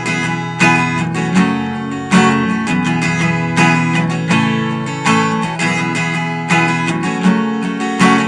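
Acoustic guitar, capoed at the second fret, strummed in a steady repeating down, down, down, up, down, up, down, up pattern, with the chord ringing between strokes.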